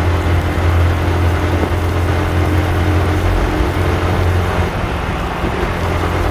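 Yamaha R15 V2's 150 cc single-cylinder engine running steadily at cruising speed, about 80 km/h, with a constant low hum under wind and road rush.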